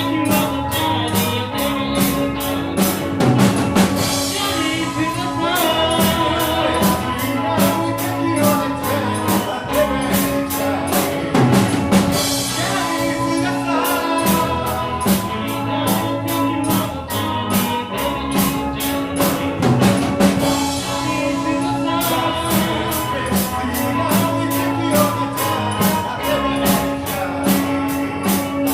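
Live rock band with drum kit, electric guitar, bass guitar and synthesizer playing a driving song with vocals, the drums keeping a steady cymbal beat with crashes about every eight seconds.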